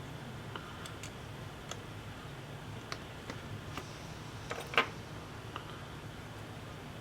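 Scattered light clicks and taps over a low steady hum, with one sharper click just before five seconds in.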